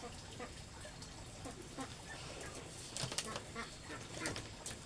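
Short, scattered calls of farm birds, with a few sharp clicks or knocks in the second half.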